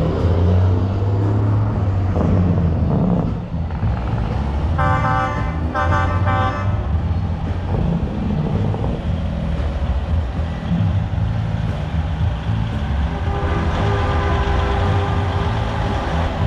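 Diesel truck engine running, with two short horn blasts about five and six seconds in. A steady higher tone comes in near the end.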